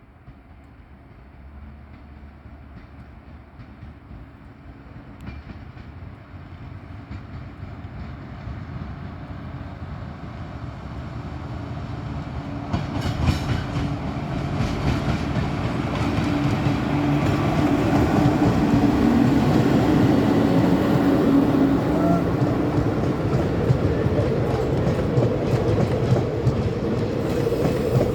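Indian Railways express train approaching and running past. Its rumble grows steadily louder for about fifteen seconds, then it stays loud as the wheels clatter rhythmically over the rail joints.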